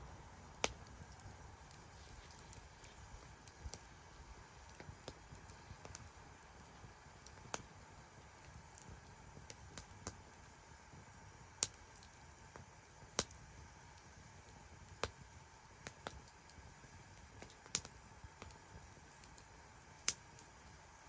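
Wood fire crackling in a secondary-combustion fire pit: sharp, irregular pops and snaps, roughly one every second or so, over a faint steady hiss.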